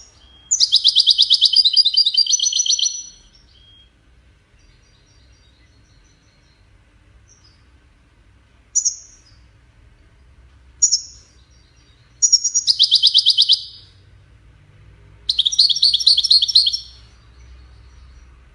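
European goldfinch song in the wedani style, used to tutor young goldfinches: three phrases of fast, high trilled twittering, with two short single chirps between them.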